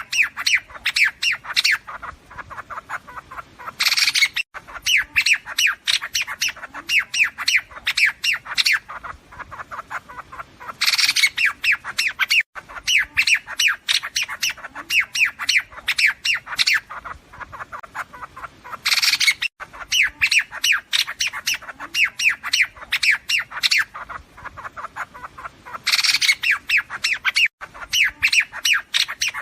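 Recorded flock calls of liếu điếu birds, used as a trapper's lure: fast, harsh chattering notes. The recording loops about every 7 to 8 seconds, each cycle opening with a louder harsh burst.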